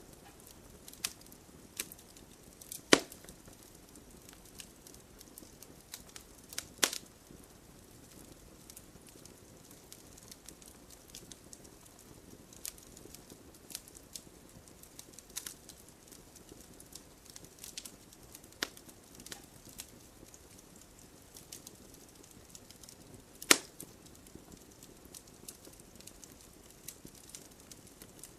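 Campfire crackling: scattered sharp snaps and pops over a faint steady hiss, with a few much louder pops spaced several seconds apart.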